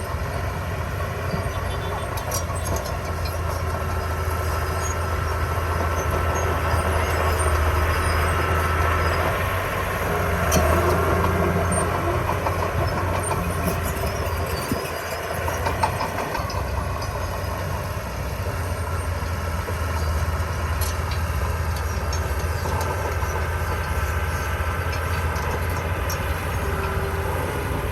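Komatsu D20P crawler bulldozer working, its diesel engine running steadily, with metallic squealing and clanking from the steel tracks.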